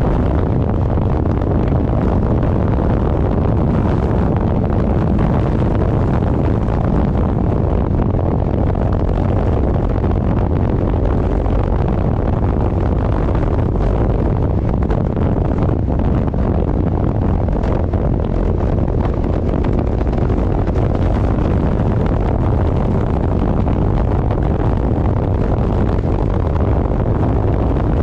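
Loud, steady wind buffeting on the microphone of a moving vehicle, with road and engine rumble underneath.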